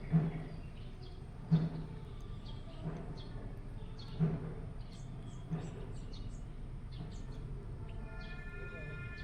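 Birds chirping in the background, with a regular series of dull thumps about every second and a half. Near the end comes a longer call of several stacked tones.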